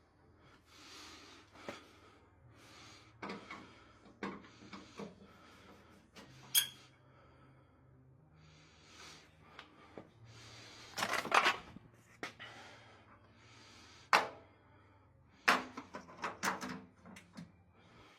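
Washing machine parts being handled during assembly: irregular knocks, clicks and clatter, with several sharp louder clicks a few seconds apart, over a faint steady low hum.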